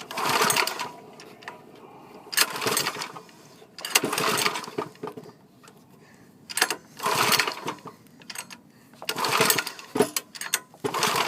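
Lifan 6.5 hp single-cylinder engine being pull-started over and over: about five separate bursts of cranking, each about a second long and a couple of seconds apart, with no steady running between them. The engine turns over but does not catch.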